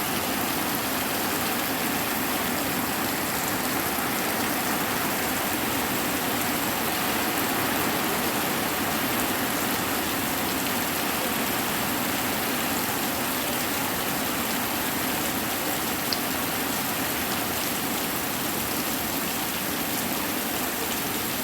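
Hard rain pouring steadily, an even hiss without let-up, with one brief click late on.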